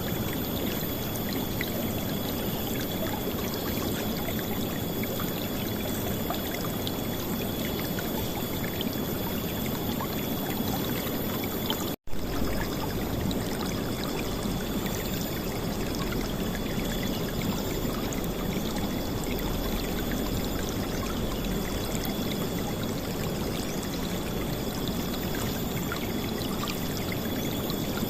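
River water flowing and splashing steadily, with a brief dropout and click about twelve seconds in where the recording cuts.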